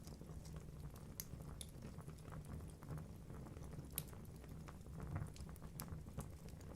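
Wood logs burning in a fireplace: a steady low rumble of the flames with irregular sharp crackles and pops, one louder pop about four seconds in.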